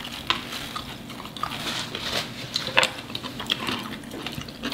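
Chewing and mouth sounds of people eating rotisserie chicken and vegetables, with short smacks and clicks scattered throughout.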